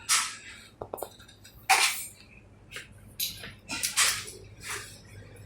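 A string of short, separate clinks and clatters of hard objects being handled, about seven in a few seconds with pauses between.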